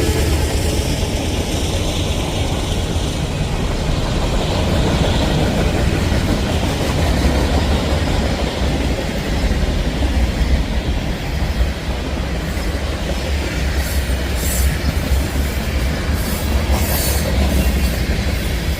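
Freight train rail cars rolling past close by on a curve: a steady low rumble of wheels on the rails, with a few brief higher-pitched wheel noises near the end.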